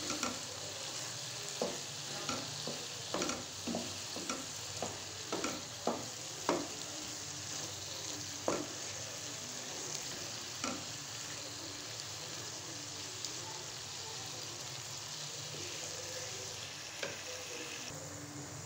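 Cubed pumpkin frying in oil in a nonstick pan, with a steady sizzle now that its water has cooked off. A wooden spatula stirs it, knocking and scraping against the pan often in the first half, then only now and then.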